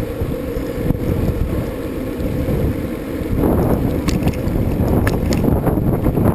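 Wind buffeting the microphone of a camera on a moving bicycle, with a few short clicks from about four seconds in.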